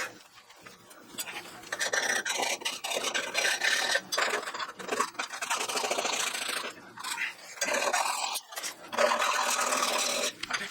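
Rasping, scraping strokes of hand work on metal, in stretches of one to three seconds with short pauses between.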